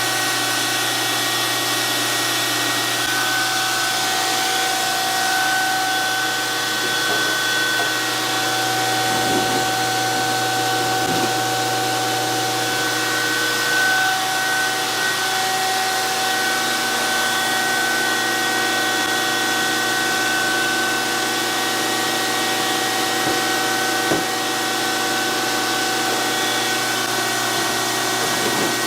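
DoAll 14-inch surface grinder running steadily, a constant whine over a hum with a hiss above it, broken by a faint click or two.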